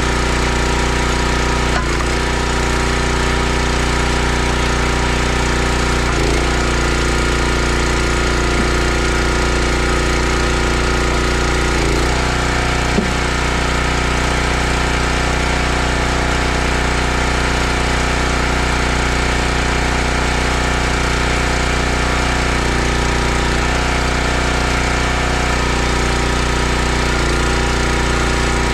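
Gas-engine log splitter running steadily, its engine note shifting slightly every few seconds.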